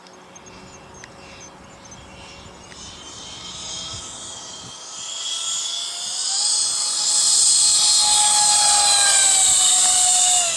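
Twin electric ducted fan units of a radio-controlled CRJ-200 model jet in flight, a high whine with hiss that grows steadily louder as the jet comes closer, its pitch stepping up slightly about six seconds in and dipping a little near the end.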